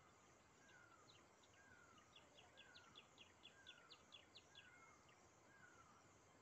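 Faint birdsong from two sources: a quick run of short, high, down-slurred notes, about four or five a second, that builds and then stops about five seconds in, over a slower, lower down-slurred note repeated about once a second by another bird.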